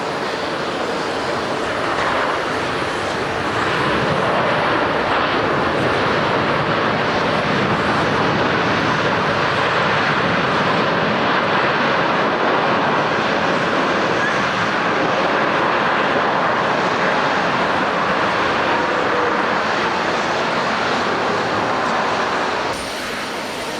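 Jet airliner engines running at high power close by: a loud, steady rush with a faint wavering whine. It swells twice in the first few seconds and cuts off suddenly near the end.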